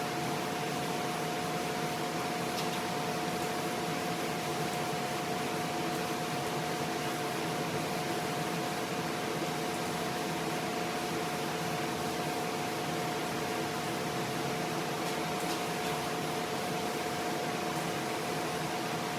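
A steady motor hum with a hiss, holding one unchanging tone throughout.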